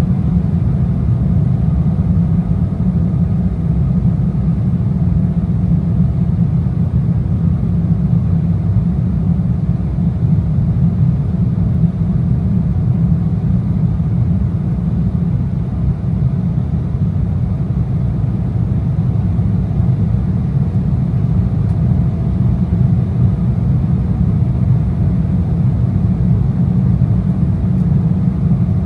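Steady, low cabin drone of an Embraer E175's two underwing GE CF34-8E turbofans and the airflow over the fuselage, heard from inside the cabin during the climb, with a faint steady hum riding above the rumble.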